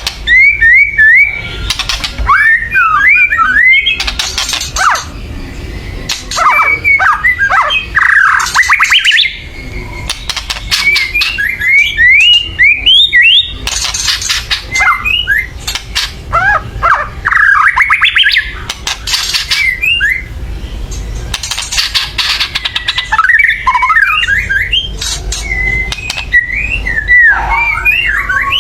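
White-rumped shama (murai batu) giving loud, harsh rattling 'kretekan' calls mixed with quick whistled notes, in bouts of a second or two separated by short pauses: the excited, aggressive calling of a shama worked up to fight.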